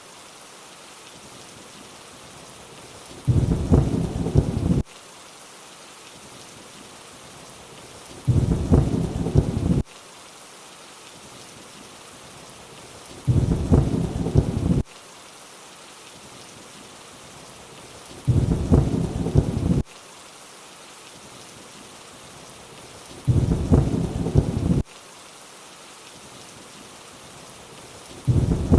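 Steady rain falling, with short rumbles of thunder that come back every five seconds, each about a second and a half long and cutting off abruptly, like a short thunder recording looped over the rain.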